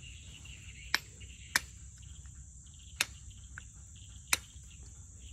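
Four sharp clicks of a leaf being cut, over a steady high trill of crickets.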